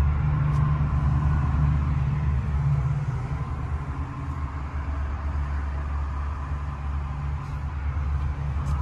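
Steady low rumble of the Range Rover Velar P340's 3.0-litre supercharged V6 idling.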